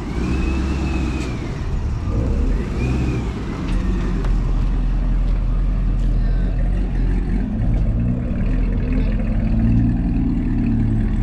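Car engines running with a steady low rumble as cars pull out. Two short high rising-and-falling squeals come in the first few seconds.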